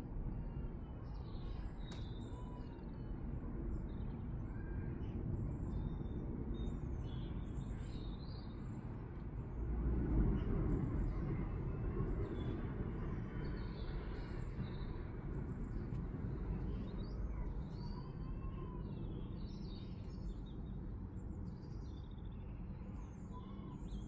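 Small birds chirping and singing on and off over a steady low background rumble, which swells briefly about ten seconds in.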